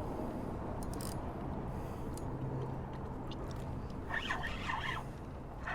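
Fishing reel being cranked to bring in a hooked fish, a rough scratchy winding sound over steady wind noise, with a rougher patch about four seconds in.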